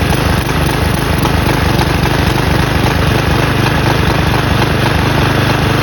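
Briggs & Stratton single-cylinder flathead engine on a Craftsman push mower running steadily while used motor oil is fed into its intake.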